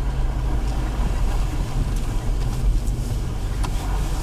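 Steady low rumble of a vehicle driving on snow-covered roads, heard from inside the cabin, with a few faint clicks.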